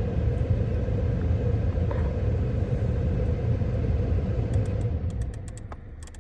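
Storm wind buffeting the microphone in a steady, gusty low rumble, easing off about five seconds in, with a few faint clicks near the end.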